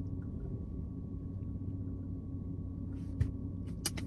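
A steady low mechanical hum, like a motor running, with a faint constant high tone over it. Two short clicks sound near the end.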